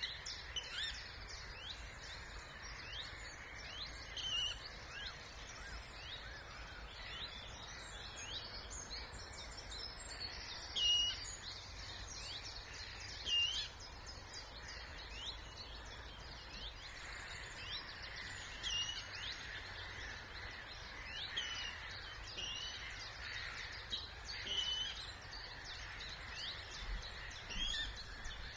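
Many birds singing and calling together in spring, a dense mix of short chirps, trills and whistled notes, with a few louder calls standing out, over a steady low background noise.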